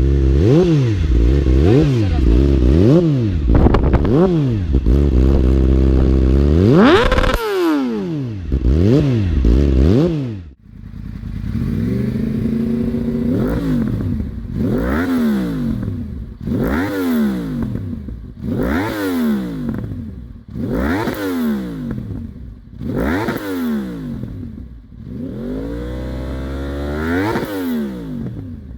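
Yamaha inline-four sport bike engine revved repeatedly through its exhaust, the pitch climbing and falling with each throttle blip. The blips come about once a second at first, then after a short break about every two seconds.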